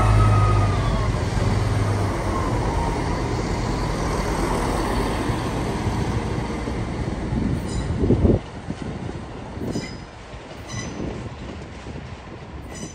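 A train passing on the station tracks: a low engine drone and a falling whine give way to steady wheel-on-rail rumble, which drops away suddenly about eight seconds in, leaving a few sharp clicks.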